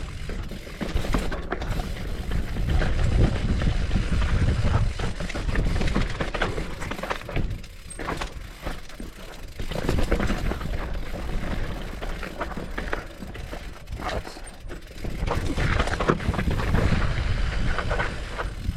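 Mountain bike ridden fast down a loose, dry dirt trail: tyres crunching over gravel and the bike rattling over bumps with many short clacks, under a steady low wind rumble on the camera mic. The noise swells and eases every few seconds as the ride goes over features.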